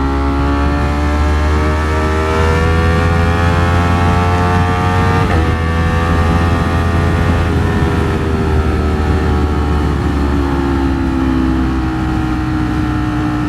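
Ducati Streetfighter V4S's V4 engine running under the rider on the open road, heard from the helmet over low wind rumble. The engine note climbs slowly for about seven seconds as the bike gathers speed, then eases gently down as he rolls off.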